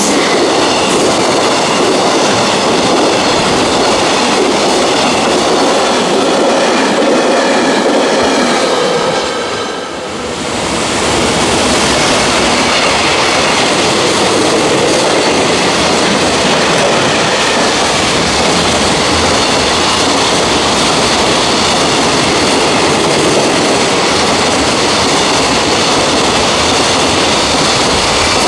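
Freight train running past at speed, its wagons' wheels rolling and clattering on the rails, with a faint high steady squeal in the first part. The sound dips briefly about ten seconds in, then carries on just as loud.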